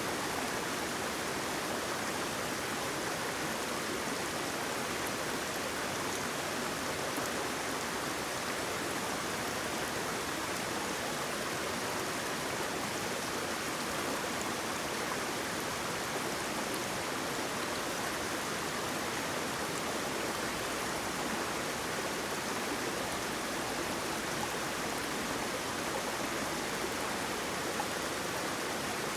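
Flowing water running steadily, a constant even rush with no breaks.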